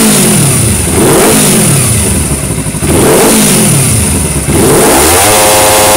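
Kawasaki Ninja 300 parallel-twin engine, through a WR Extreme exhaust with its baffle removed, revved at a standstill in quick throttle blips that rise and fall. The last rev is held briefly at higher revs near the end.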